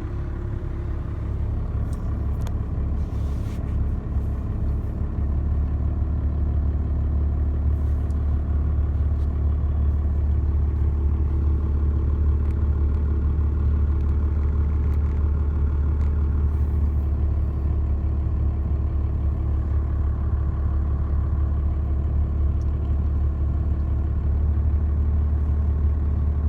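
Dodge pickup's turbodiesel engine idling steadily just after starting, heard from inside the cab, with a few light clicks about two to four seconds in.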